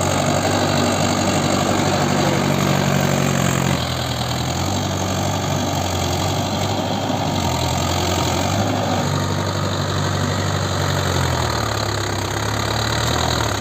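Mahindra Yuvo 575 4WD tractor's diesel engine running steadily at low revs, its note dropping slightly about four seconds in.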